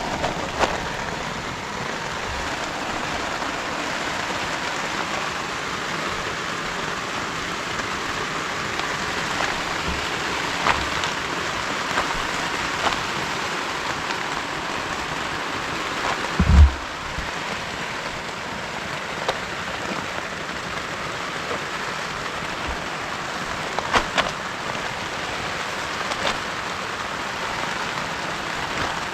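Heavy rain falling steadily, with scattered sharp drop impacts and one short, dull thump about halfway through.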